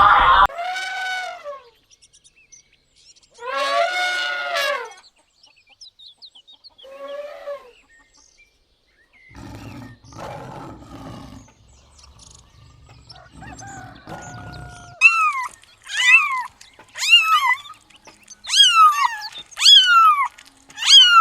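A series of different animal calls: two drawn-out pitched calls in the first few seconds, then from about two thirds of the way in a run of sharp, falling high-pitched calls repeated roughly once a second.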